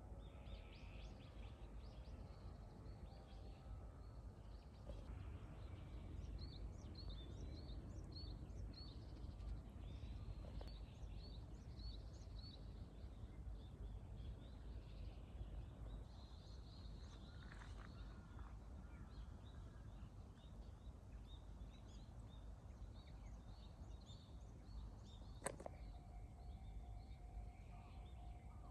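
Wild birds calling faintly outdoors, short high chirps, with one bird giving a run of evenly spaced notes about twice a second, over a low steady rumble of background noise. A single sharp click about 25 seconds in.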